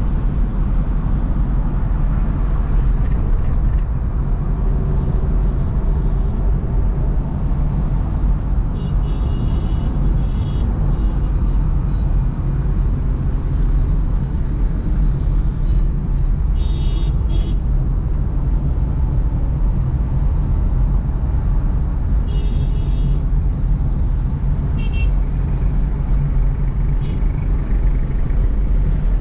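Car driving through city traffic: a steady rumble of engine and tyre noise, with a few short vehicle horn toots scattered through it.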